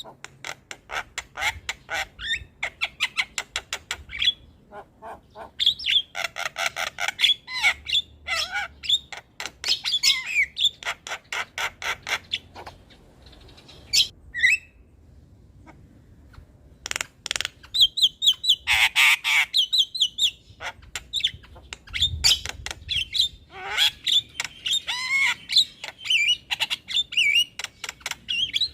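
Javan myna singing in full, busy song: long runs of rapid harsh chattering and squawking notes mixed with whistled phrases, with a short pause about halfway through.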